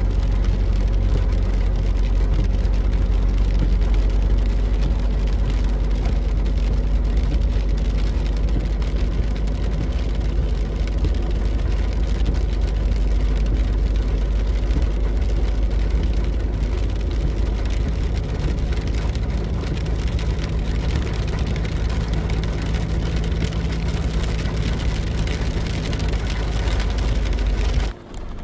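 A car driving: steady engine and road noise with a low hum that shifts slightly partway through, dropping off abruptly near the end.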